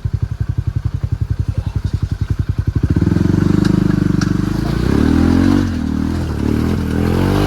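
A Ranger utility vehicle's engine, at first running with an even pulsing beat, then revving up about three seconds in and working under load, its pitch rising and falling, as it pulls a hitched trailer through a rocky creek crossing. A couple of sharp clicks sound over the engine.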